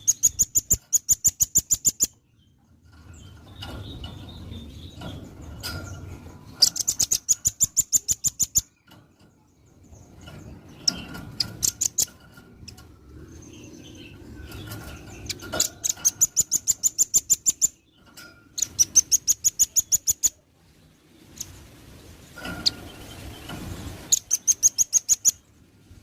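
Velvet-fronted nuthatch singing: bursts of rapid, evenly repeated high-pitched notes, each about two seconds long, five times over, with fainter chips in between.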